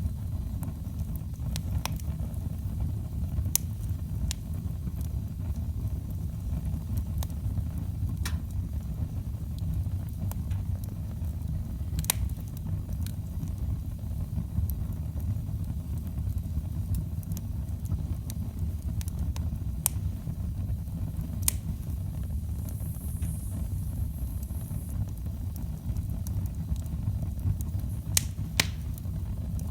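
Wood fire burning in a fireplace: a steady low roar of the flames with sharp, irregular crackles and pops from the burning logs every few seconds.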